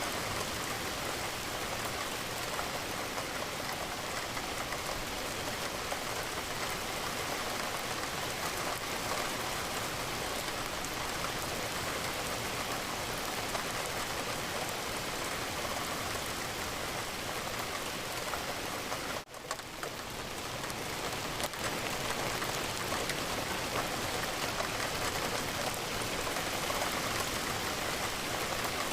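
Steady rain falling against a window, an even dense hiss of drops. About two-thirds of the way through the sound cuts out for an instant and swells back over a second, like a loop seam.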